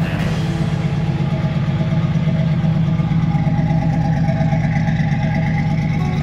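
A car engine idling steadily, loud and close, with a fast low throb.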